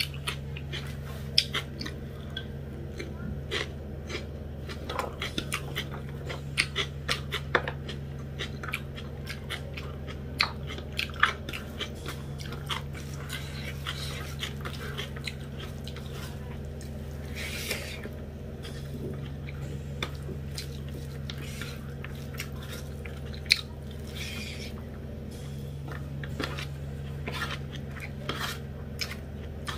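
Close-miked eating sounds: chewing of rice and buff sukuti curry, with wet mouth clicks and fingers scraping and tapping on a steel plate as the rice is mixed by hand. The clicks come thickly through the first half, with one sharp click later on, over a steady low hum.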